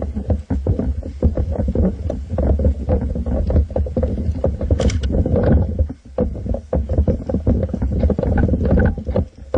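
Rumbling handling and wind noise on a camera mounted on an airsoft rifle, with many irregular knocks and clicks as the rifle is carried and moved.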